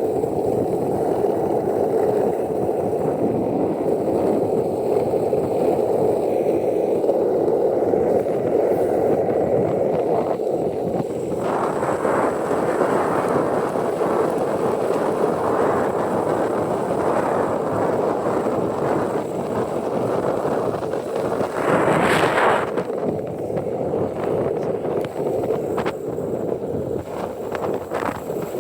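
Skateboard wheels rolling downhill on asphalt, a steady rumble, mixed with wind noise on the phone's microphone. A short, louder rush of noise comes about three quarters of the way through.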